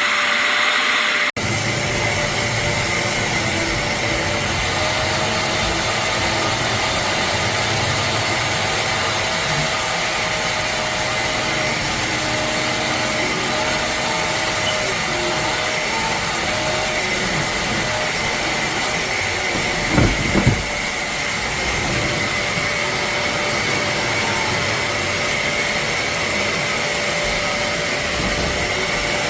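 Hoover CleanSlate Plus portable spot cleaner's motor running steadily, a rushing suction noise with a steady whine. There is a brief break just over a second in and a quick double knock about two-thirds of the way through.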